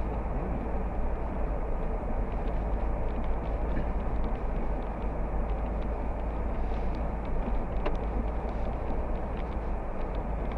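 Steady rumble of road and engine noise heard from inside a moving vehicle.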